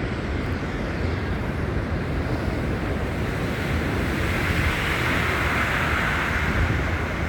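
Wind buffeting a handheld phone's microphone, a steady low rumble, with a rushing hiss that swells about halfway through.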